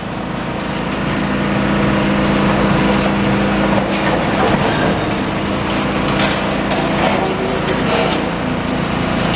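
Demolition excavator's diesel engine working under load, with cracks and crunches of concrete as its crusher attachment pulls down and turns over a large slab of concrete floor.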